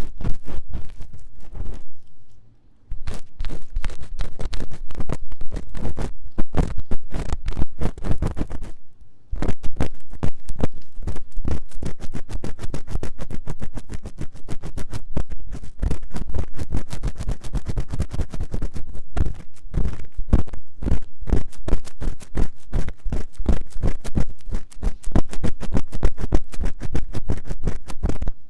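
Ear-cleaning tool scratched rapidly and vigorously in the silicone ear of a 3Dio binaural microphone, a dense run of quick scraping strokes with brief pauses about two seconds in and again around nine seconds.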